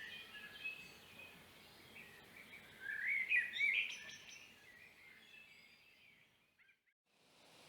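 Birds chirping and calling, with short rising notes, over faint background noise. The birdsong fades out to near silence near the end, then a steady hiss begins to rise.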